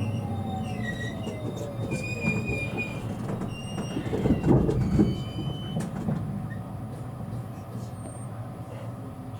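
E653-series electric train braking to a stop, heard from inside the car: the motor whine falls in pitch and thin brake and wheel squeals come and go. A few knocks follow about four to five seconds in, and then the running noise dies down.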